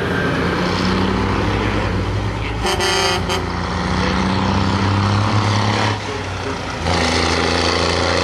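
Cummins 262 inline-six diesel in a Freightliner bubblenose truck running loud through a 5-inch straight pipe. A short horn toot sounds about three seconds in. The engine eases off briefly around six seconds, then comes back up.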